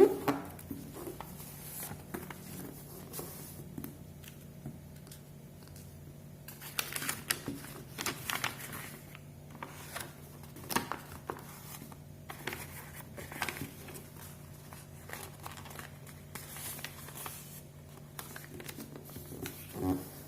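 A sheet of paper being folded and creased by hand: short, scattered rustles, crinkles and soft taps over a low steady hum.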